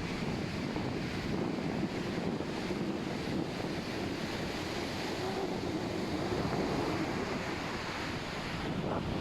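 Surf washing onto a sandy beach, a steady noise without distinct breaks, with wind rumbling on the microphone.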